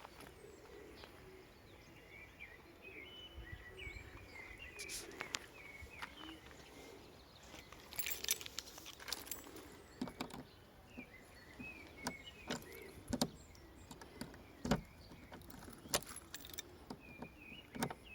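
A bunch of keys jangling and clicking as they are handled and tried, with clicks and knocks coming thickly from about halfway through. Birds chirp in the background.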